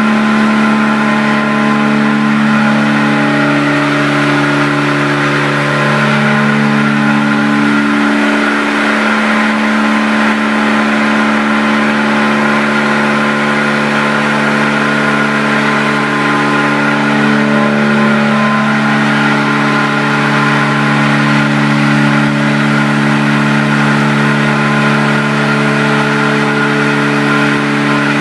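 Three-axis CNC stone router running, a steady motor whine made of several held tones. The tones step up and down in pitch every few seconds.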